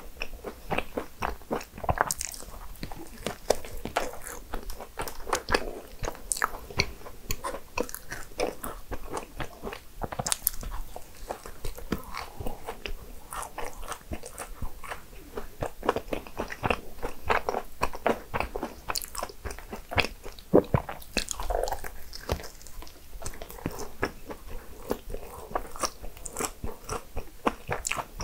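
A person chewing and biting desserts: a steady run of many small crunches and clicks.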